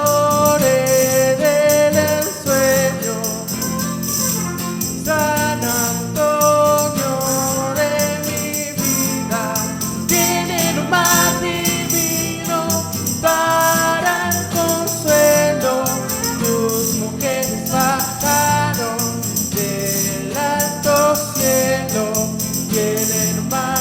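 Small live brass-and-string ensemble playing an instrumental passage of Chilean popular music: a melody in quick, stepping notes over a steady accompaniment.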